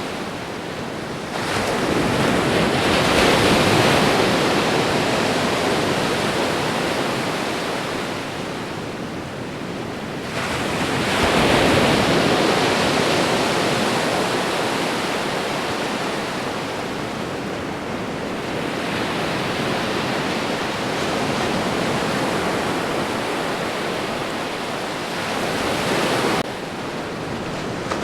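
Ocean waves breaking on a shore in a steady wash of surf. A wave comes in sharply about a second and a half in and another about ten seconds in, each one slowly fading away.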